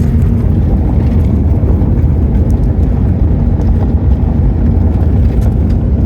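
Steady, loud low rumbling noise with a few faint ticks, of the kind heard as road noise in a moving car or wind on a microphone.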